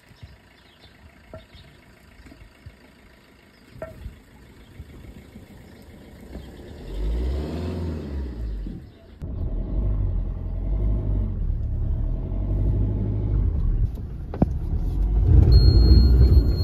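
Car engine revving up and down a few seconds in, then running steadily and louder as the car moves, loudest near the end.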